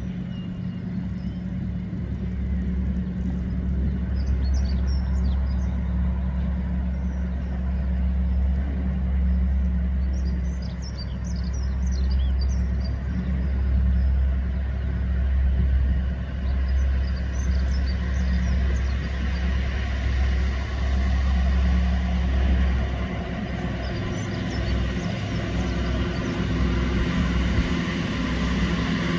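Diesel locomotive engine running with a steady deep hum as the bitumen tanker train works along the line. Short bursts of high-pitched chirps or squeals come through several times over it.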